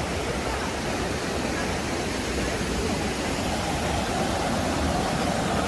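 Steady rush of flowing river water and small waterfalls, an even hiss with no breaks.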